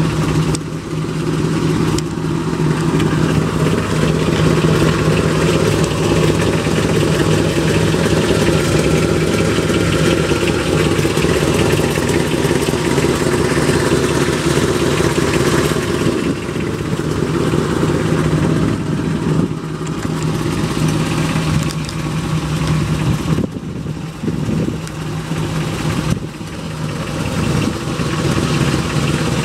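A 1962 Chevy Impala's mildly built 283 small-block V8 idling steadily, with a few short breaks in the sound.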